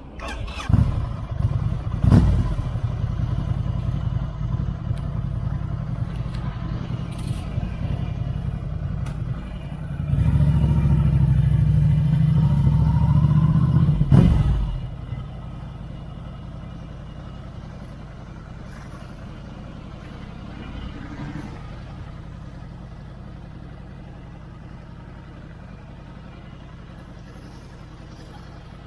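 Ducati Scrambler 803's air-cooled L-twin with a Termignoni exhaust, running: it catches just after the start, is held at higher revs for about four seconds partway through, then drops back to a quieter, steady idle.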